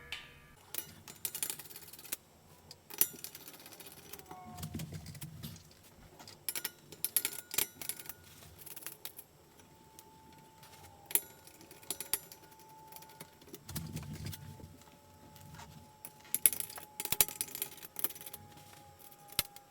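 Scattered metallic clicks and clinks from handling screws and metal blade hardware while taking the blades off a ceiling fan.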